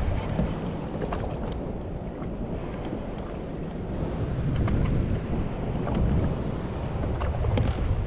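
Wind buffeting the microphone, a rumbling gusty noise over ocean water, with a few faint small clicks.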